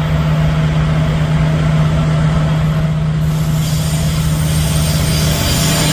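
Four 16-cylinder diesel locomotives at full power hauling a heavy freight train past: a loud, steady, deep engine drone with a strong low hum. About three seconds in, a brighter hiss of wheel and rail noise joins as the train draws level.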